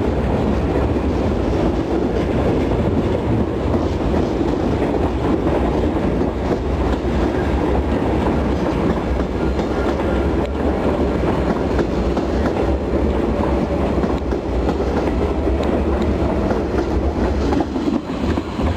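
R40 Slant subway train departing the station, running steadily on the track with the clatter of wheels over rail joints.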